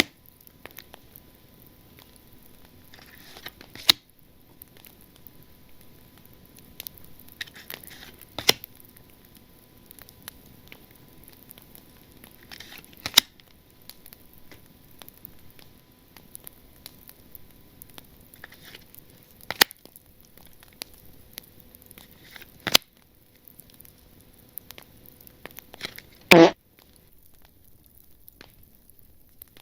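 Panini Zenith football trading cards handled close to the microphone: soft rustling and sliding, with a sharp click every few seconds and one louder knock near the end.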